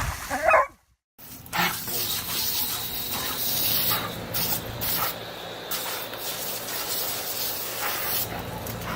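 Steady hiss of water spraying, with a couple of brief breaks in the spray.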